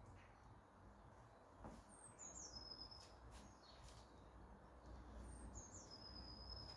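Faint birdsong over a low outdoor rumble: a songbird twice gives a short high phrase, a quick falling whistle ending in a held note, once about two seconds in and again near the end.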